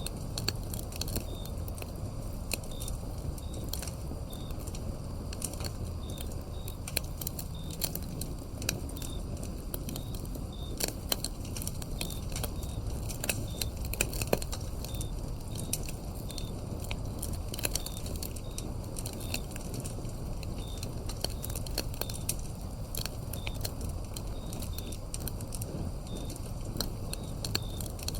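Wood fire crackling and popping in irregular sharp snaps over a low steady rumble. A cricket chirps in short high notes about once or twice a second throughout.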